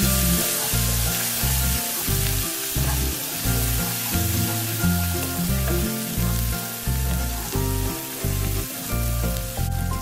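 Potatoes and onions frying in oil in a non-stick pan, sizzling while a wooden spatula stirs them; the sizzle is strongest in the first few seconds. Background music with a pattern of low held notes plays underneath.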